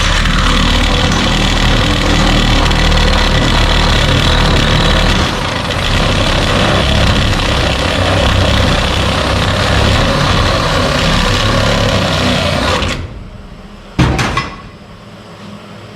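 Power tool running steadily as it enlarges a hole in the sheet-metal door latch mount, cutting off about 13 seconds in, followed by a single sharp knock.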